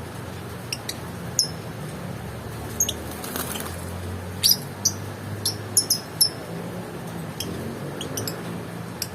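Lovebird giving short, sharp, high chirps at irregular intervals, clustered most thickly in the middle, over a steady low hum.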